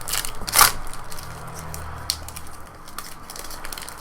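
Crinkling and crackling of a trading-card pack wrapper as cards are handled, with a louder crackle about half a second in.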